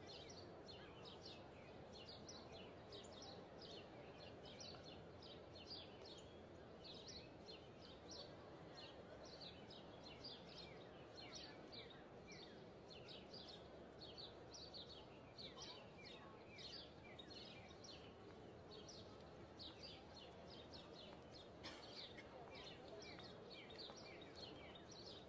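Small birds chirping in quick, high, overlapping calls, over a quiet steady background hiss.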